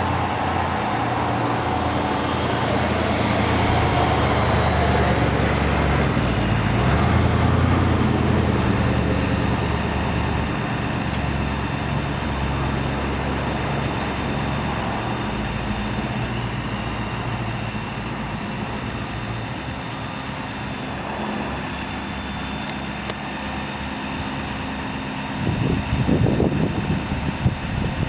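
Ford Power Stroke diesel engine of a bucket truck running steadily while driving the hydraulics of its aerial lift, its note shifting a few times as the boom is worked. A short loud rush near the end.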